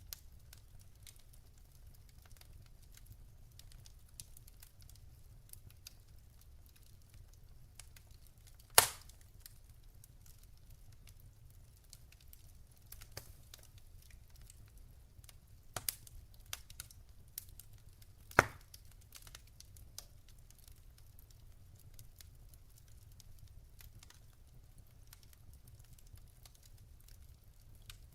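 Wood fire of burning logs in a fireplace, crackling softly over a low steady rumble, with two sharp pops about ten seconds apart and a few smaller snaps between them.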